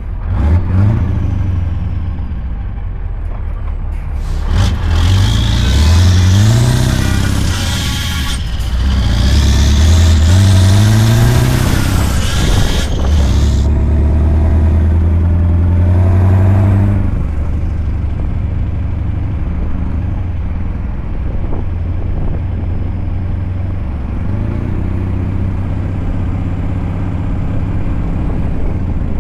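Scania V8 truck engine accelerating through the gears: the engine note rises twice, with a drop at a gear change between, holds high for a few seconds, then settles to steady, lower running.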